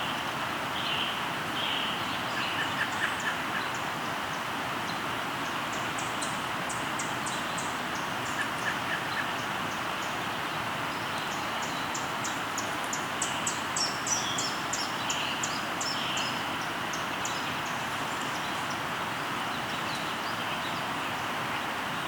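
River flowing steadily, with birds singing over it: a quick high trill about six seconds in, a longer run of rapid high notes from about twelve to seventeen seconds, and scattered short chirps between.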